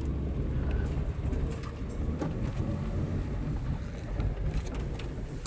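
Toyota 4Runner's engine running low and steady as it crawls a rough wooded trail, with scattered short knocks and clicks over it.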